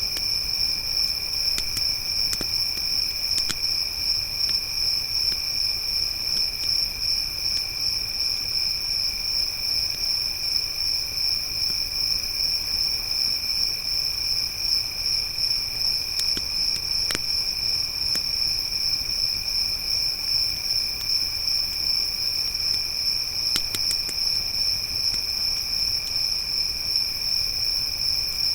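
Crickets trilling in a steady, continuous high drone, with a few sparse, sharp crackles from a wood campfire scattered through it.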